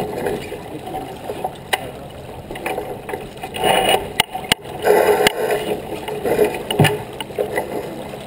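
Water washing along the hull of a J/24 sailboat under way, swelling and easing, with a few sharp knocks and clicks from the boat.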